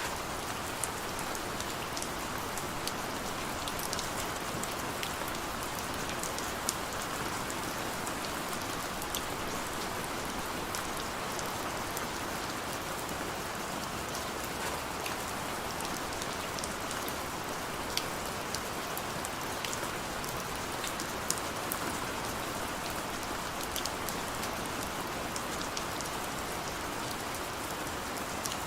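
Heavy rain falling steadily, an even hiss with many individual drops ticking sharply on a surface.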